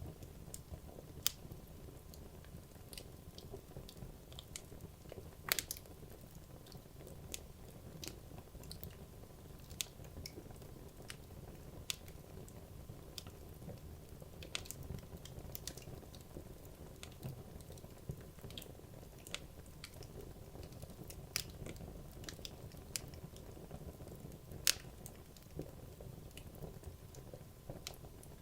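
Wood logs burning in a fireplace: a low steady rumble of the flames with sharp, irregular crackles and pops, a few louder pops standing out.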